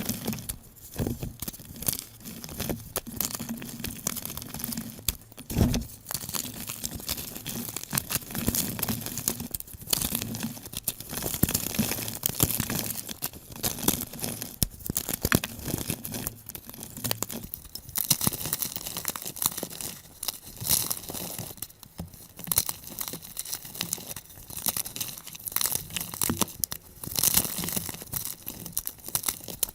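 Blocks of gym chalk being crushed and crumbled, sped up: a dense run of dry, irregular crunches and crackles.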